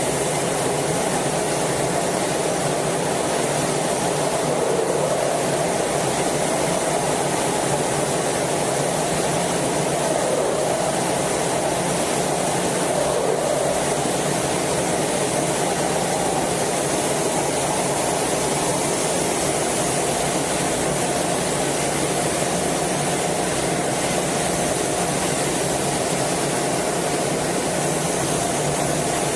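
Steady jet noise heard from inside a fighter jet's cockpit in flight, an even rush of engine and airflow with a faint hum held at one pitch.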